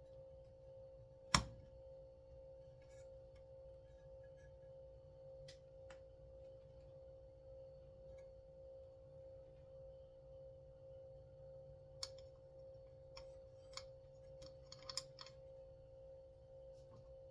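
Faint steady background hum with one sharp click about a second in, then a few light clicks near the end, as small parts of a chainsaw recoil starter are handled during reassembly.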